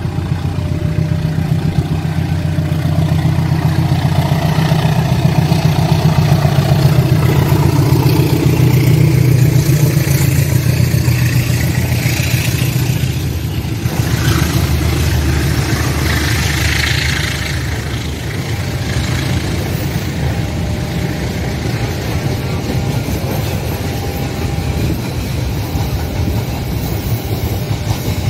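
Diesel locomotive passing close by, its engine running loudest a few seconds in, followed by the steady rolling rumble and wheel noise of a long rake of passenger coaches going past.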